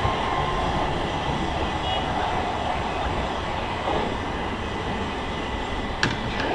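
Electric multiple-unit train running along the platform: a steady rumble and rush of wheels on rail, with a sharp click about six seconds in.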